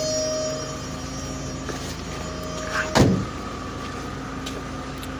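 2003 Volkswagen Beetle's 2.0 four-cylinder engine idling steadily just after an engine swap, with the car's steady open-door warning tone sounding over it. A single sharp knock about three seconds in.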